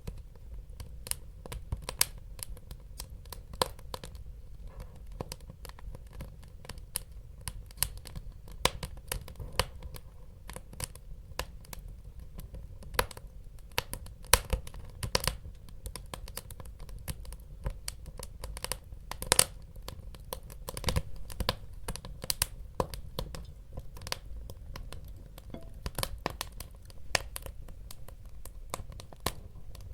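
Wood fire burning in a fireplace: irregular sharp crackles and pops, some much louder than others, over a steady low rumble of the flames.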